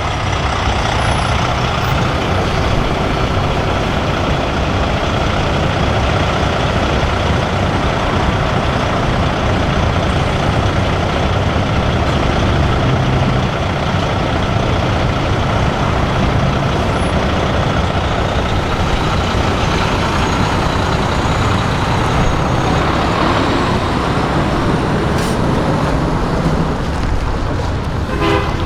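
Diesel semi-truck engines running loud and steady as big rigs pull out one after another.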